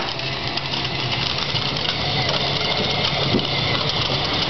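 Battery-powered ride-on toy monster truck (Grave Digger) driving, its electric motors and gearbox giving a steady whirring hum with a rattly haze of plastic wheels rolling over the ground.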